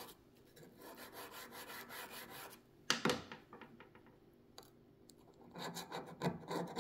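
Paper towel scrubbing grime off a vintage sewing machine's body in quick repeated rubbing strokes, with one louder stroke about three seconds in and harder strokes near the end.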